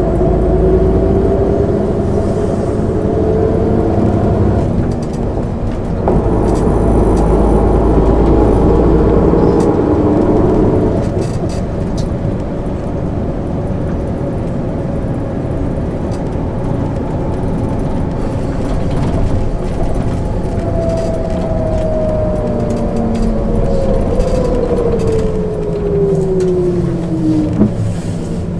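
1999 MAN ÜL 353 intercity bus heard from on board, its diesel engine and drivetrain pulling with a rising whine. There is a gear change about five seconds in, then another rising pull and steady running. Near the end a long falling whine as the bus slows.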